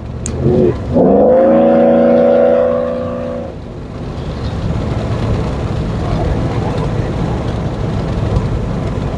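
Chevrolet Silverado pickup's V8 engine revved up sharply and held high for about two and a half seconds, then easing off. A steady, building drive and road noise follows as the truck pulls away.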